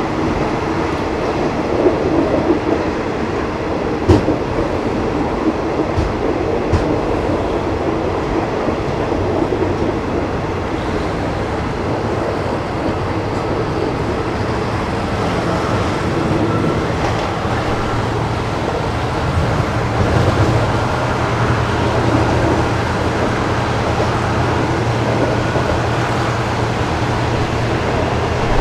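Passenger train running, heard from inside a carriage with open windows: a steady rumble of wheels on the track with a few sharp clacks over rail joints. A low steady hum comes in about halfway through.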